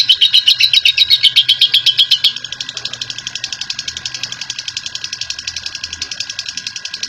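Lovebird's ngekek: a long, fast chattering trill of rapidly repeated high notes, about ten a second. A little over two seconds in it drops abruptly to a quieter, thinner chatter that keeps going at the same quick pace.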